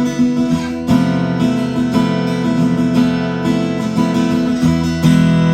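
Fender Newporter acoustic guitar being played: a run of picked notes, then a chord struck about five seconds in that rings out.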